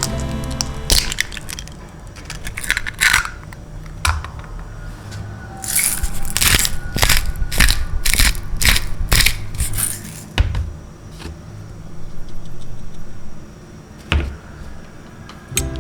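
Objects handled at close range: sharp clicks, scrapes and clatters, with a quick run of knocks midway through.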